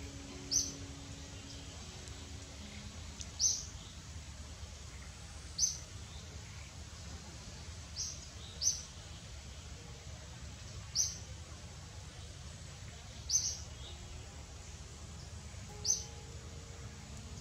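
Short high bird chirps, singly or in pairs, repeating every two to three seconds over a steady low background rumble. Faint music notes sound at the start and again near the end.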